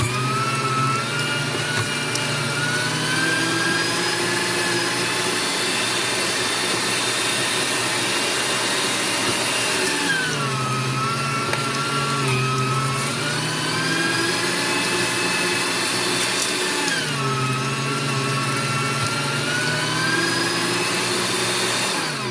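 AARTVARK TEES electric meat grinder running while grinding beef, a steady motor whine whose pitch sags twice, about ten and seventeen seconds in, and climbs back. It shuts off at the very end.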